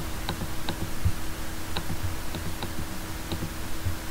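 Computer mouse clicking about six times at irregular intervals, over a steady low electrical hum.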